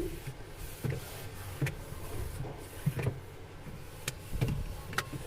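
Irregular knocks and clatter as the inside of a refrigerator is cleaned, about six sharp knocks scattered over the few seconds.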